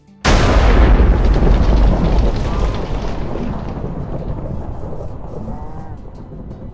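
A close thunderclap: a sudden loud crack about a quarter second in, then a deep rolling rumble that slowly fades away.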